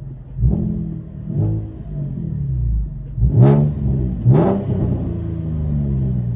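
Chevy Camaro 3.6L V6 with a Borla ATAK axle-back exhaust and X-pipe being revved in four quick blips, the two sharpest about three and four seconds in, then dropping back toward idle; heard from inside the cabin.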